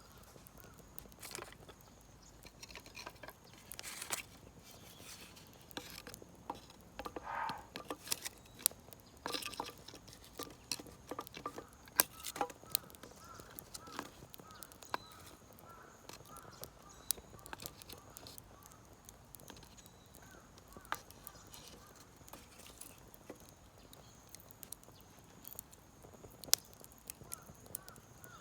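Small wood fire crackling and popping in a kamado-style shichirin, with irregular sharp snaps, while birds chirp in the background.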